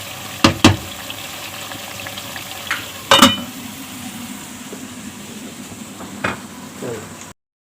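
Masala chicken sizzling in a karahi, with a few sharp metal clinks against the pan, the loudest a ringing clang about three seconds in. The sound cuts off abruptly near the end.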